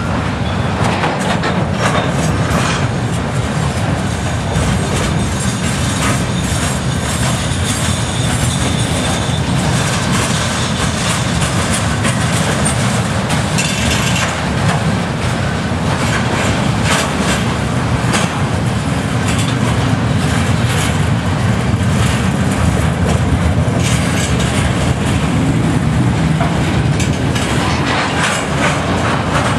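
Loaded CSX bulkhead flatcars carrying steel slabs rolling past on the track: a steady, loud rumble of steel wheels on rail, with repeated clicking and clanking from the wheels and cars.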